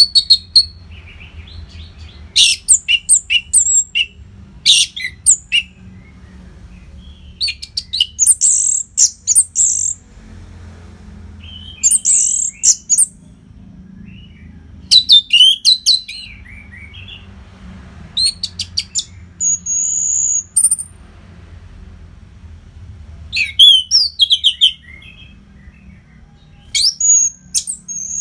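Orange-headed thrush (Geokichla citrina) singing: about ten loud bursts of rapid, high-pitched, sliding and warbling notes, each lasting a second or so, spaced a couple of seconds apart.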